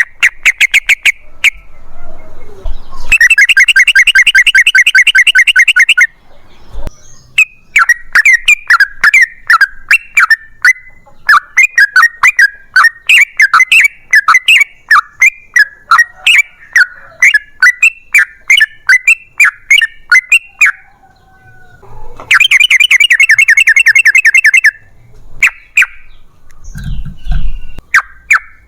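Yellow-vented bulbul (trucukan) singing loudly. It gives two long rapid rattling trills, about three seconds in and again about twenty-two seconds in, with a long run of quick, sweeping chirped notes between them.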